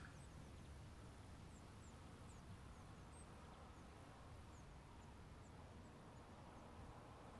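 Near silence: faint outdoor background with scattered, faint, short high-pitched bird chirps.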